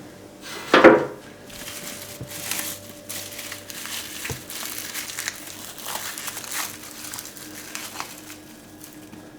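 A single sharp knock, then several seconds of continuous crinkling and rustling with small crackles, as something is handled by hand.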